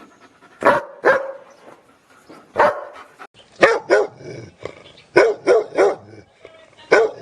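A dog barking: a few single barks spaced out at first, then quicker runs of two or three barks.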